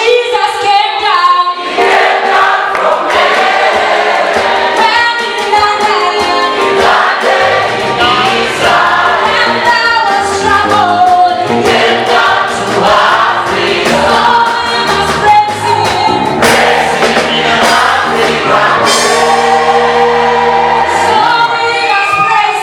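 A choir singing an African gospel song in harmony, with a low bass line joining underneath about eight seconds in.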